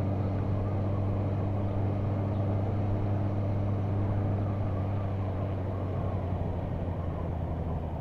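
Motorcycle engine running at steady revs under the rush of riding wind, easing off slightly near the end.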